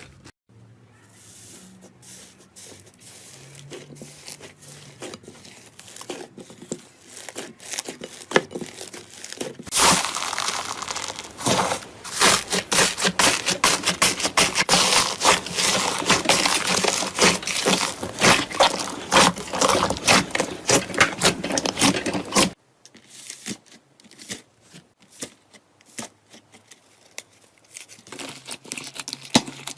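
Slime being squeezed and worked by hand, giving a crackling, crinkling texture. It is quieter at first, turns dense and loud about a third of the way in, and cuts off suddenly into softer crackles near three-quarters through.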